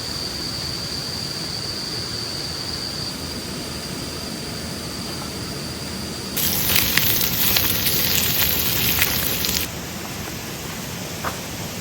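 Wood campfire crackling, with sharp pops and hiss that swell louder for about three seconds in the middle, over a steady outdoor noise. A thin steady high tone runs through the first half and stops about halfway.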